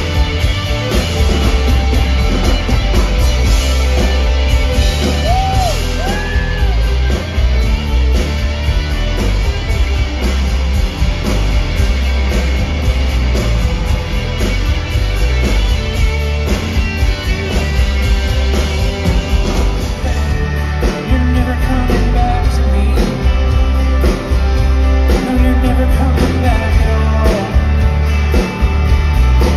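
A live rock band playing loud, with a singer over the band and a heavy, steady bass.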